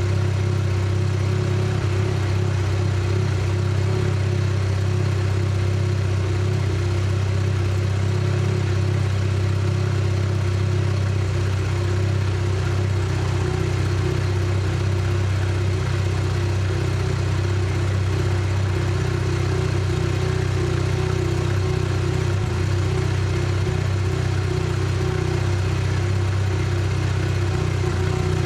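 Mazda RX-7 FC3S rotary engine running at a steady idle, with no change in pitch or level.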